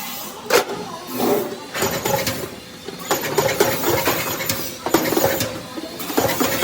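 Sheet-metal workshop noise: irregular metallic knocks and clinks, some ringing briefly, over a steady machine hum.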